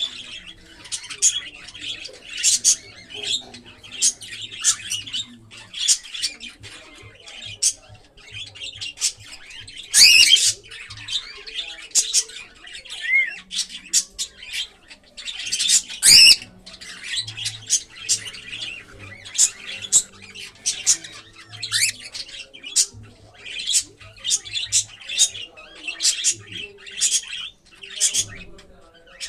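Cockatiels chirping and squawking in rapid short calls, with two louder squawks about ten and sixteen seconds in.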